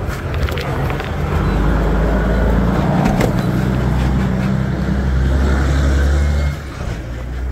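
A motor vehicle engine running with a steady low rumble. It grows louder about a second in and drops off near the end.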